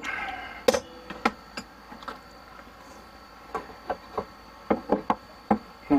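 Scattered light clicks and taps of PEX plumbing fittings and clamps being handled and fitted into place, about a dozen at irregular intervals.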